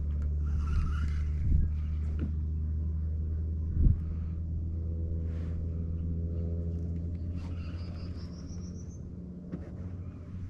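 Steady low hum and rumble of a fishing kayak's drive underway, with a single knock about four seconds in and a short high rising run of chirps near the end.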